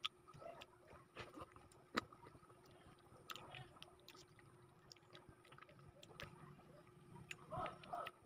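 Faint close-up chewing and wet mouth sounds of a person eating juicy fresh fruit, with scattered sharp lip-smack clicks, the loudest about two seconds in.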